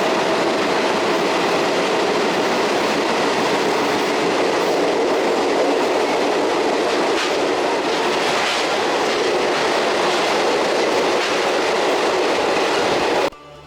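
Passenger train running on the rails: a steady rumbling rush with wheel clatter. Music cuts in abruptly right at the end.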